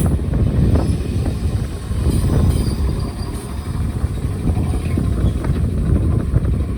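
Toyama Chiho Railway electric train moving through the station, a steady low rumble with faint high squeaks.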